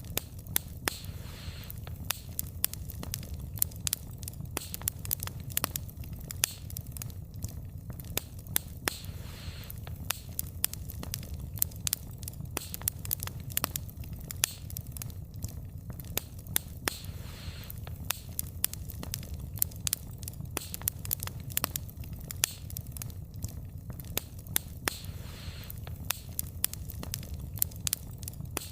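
Wood fire burning, with frequent sharp, irregular crackles and pops of the wood over a steady low rumble of flames.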